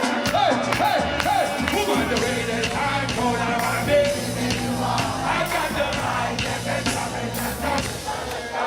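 Live concert music: a loud, amplified band with heavy bass and drums and a bending sung vocal line, heard from within the crowd. It cuts off near the end.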